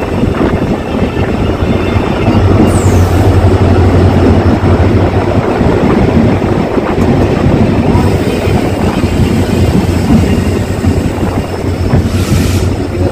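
Passenger express train running at speed between stations: a steady, loud rumble of wheels and carriage noise with a low hum, and a brief hiss near the end.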